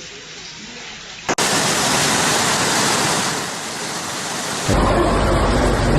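Rushing floodwater, a steady wash of noise in three cut-together stretches. It starts quieter, jumps suddenly louder about a second in, and from about two-thirds of the way through a deep rumble joins it.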